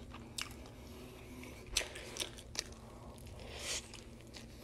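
Biting into and chewing a fried chicken sandwich: a handful of short crisp crunches with soft mouth sounds between them.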